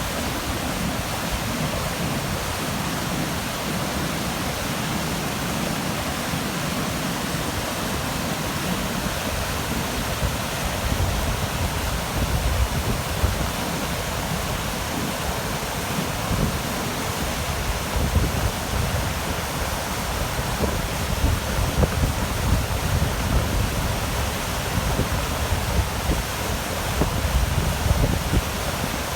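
A steady rushing hiss, with gusts of wind buffeting the microphone from about ten seconds in, stronger towards the end.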